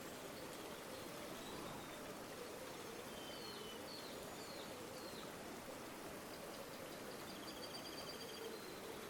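River water flowing gently and steadily, with faint bird calls over it: a few short chirps about a third of the way in and a quick trill near the end.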